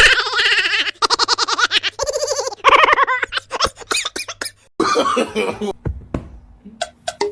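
A person laughing in quick bursts over background music.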